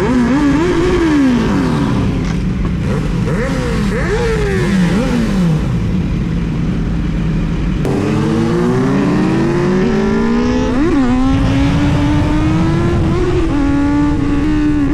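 Sport motorcycle engine revving: the revs rise and fall twice, then climb in a long pull under acceleration, dropping briefly at gear changes about two thirds of the way through and again near the end.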